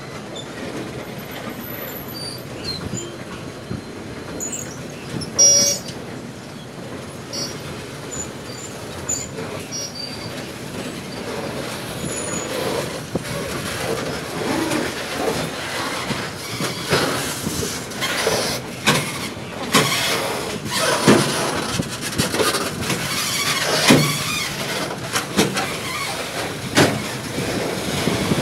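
Loaded flat-wagon freight train rolling past, its wheels running on the rails in a continuous rumble. One brief, loud, high-pitched squeal comes about five seconds in. Over the second half the rolling grows louder, with irregular clacks and knocks as the wheels cross rail joints.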